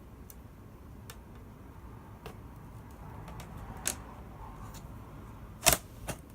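Scattered light clicks and taps of iMac parts being handled and fitted back together by hand, the loudest a sharp click near the end.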